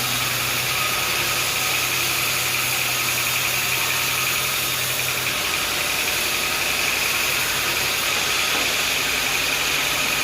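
Sawmill machinery running steadily with a constant high whine; a low hum under it stops about halfway through.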